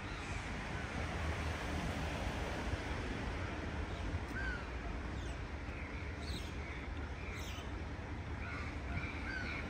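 Birds calling: short chirps and calls scattered through, a few high descending calls a little past the middle, and several in quick succession near the end, over a steady low rumble.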